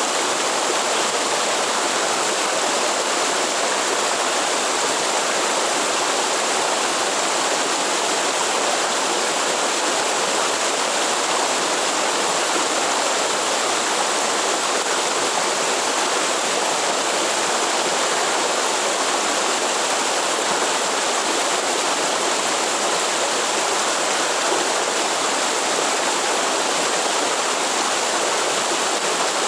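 Waterfall and stream water rushing in a steady, unbroken wash.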